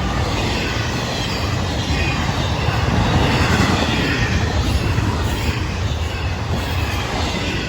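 Florida East Coast intermodal freight train rolling past, a steady, loud rumble and rush of wheels on rail.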